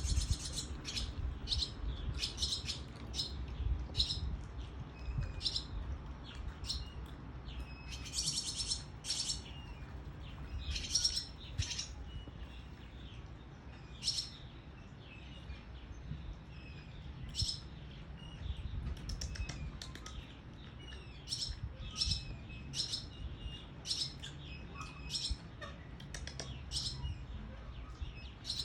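Small birds chirping: many short, high chirps repeated irregularly, one or two a second, over a low rumble.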